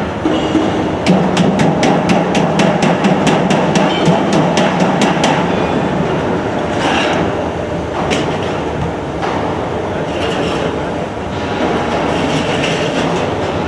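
HVAC duct auto line running: metal-working machinery clattering, with rapid regular clicks at about five a second for the first five seconds or so, then steady clatter with a few sharp knocks.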